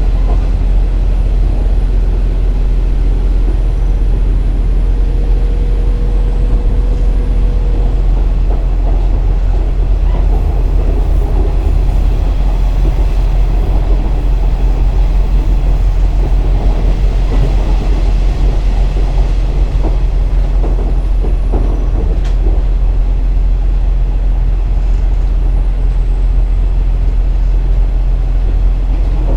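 KiHa 47 diesel railcar heard from inside the car while running: a steady, loud rumble of the diesel engine and the wheels on the rails, with a few sharp clicks along the way.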